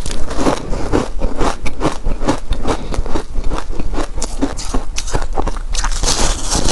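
Close-miked chewing of powder-coated shaved ice: a steady run of crisp crunches, a few a second.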